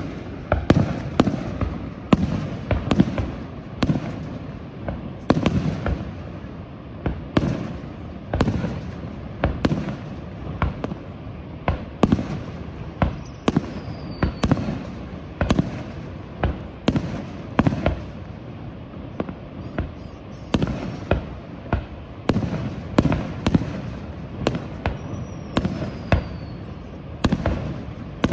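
Aerial firework shells bursting in a steady barrage, a sharp bang every second or so, each followed by a low rumbling echo.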